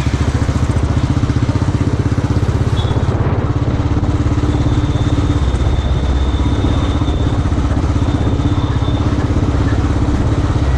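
Royal Enfield motorcycle engine running steadily under way, with a rapid, even exhaust beat.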